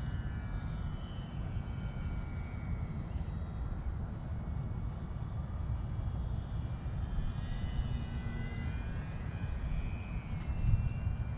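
Volantex Sabre 920 RC model airplane flying, its electric motor and propeller giving a high whine that slowly drifts up and down in pitch as it moves and changes throttle, over a steady low rumble.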